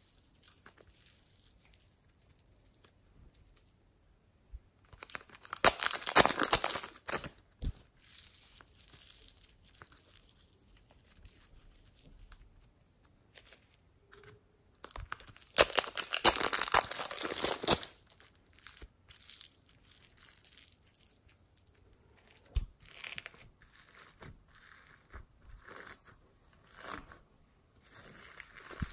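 Slime being squeezed and stretched by hand, crackling and popping, with two louder spells of dense crunchy crackling about six and sixteen seconds in and faint scattered clicks between them.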